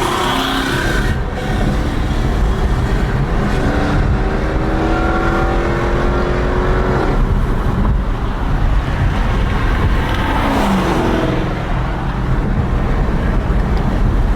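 Car engine accelerating hard over a constant low rumble. The revs climb steadily for about three seconds from around four seconds in, then cut off suddenly, and briefly rise again a few seconds later.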